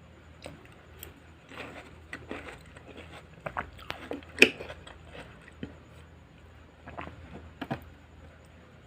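Close-up chewing of raw garden salad vegetables: irregular wet crunches and crisp bites, the sharpest snap about halfway through.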